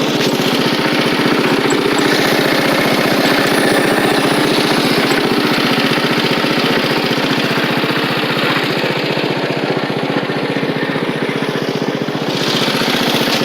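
Single small engine of a mid-1980s Simplicity riding lawn tractor running steadily as the tractor is driven along.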